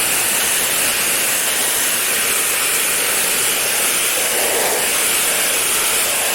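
Pressure-washer water jet spraying an air-conditioner unit during cleaning: a steady, loud hiss that changes tone briefly about four seconds in as the jet moves across the unit.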